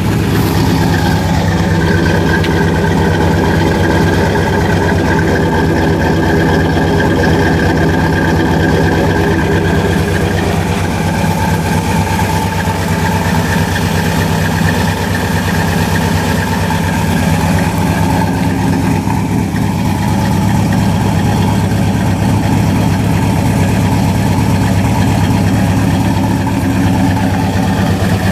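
Cammed 5.0 L (302) V8 of a 2000 Ford Explorer idling steadily through Flowmaster 40 series exhaust and headers, with its newly replaced idle air control valve.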